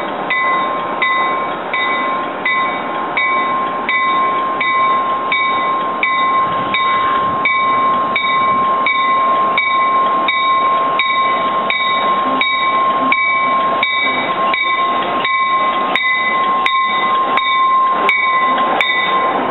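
NJ Transit commuter train arriving at a station with its bell ringing steadily at about three strokes a second. Under the bell runs a steady high squeal from the wheels on the rails and the rumble of the passing coaches. A few sharp clicks come near the end as the cars roll by.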